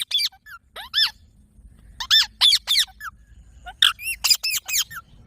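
Rose-ringed parakeet (Indian ringneck) giving a rapid run of short, shrill squawks in clusters, each call dropping in pitch.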